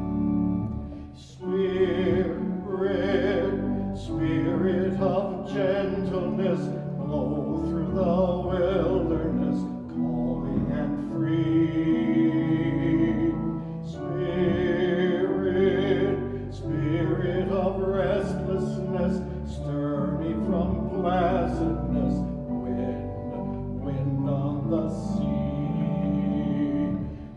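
Church organ accompanying a hymn sung with wide vibrato, in slow sustained phrases.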